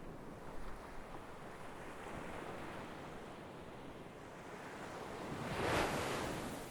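Sea waves washing in: a steady surf wash, with one wave building to a louder surge about five seconds in and then fading.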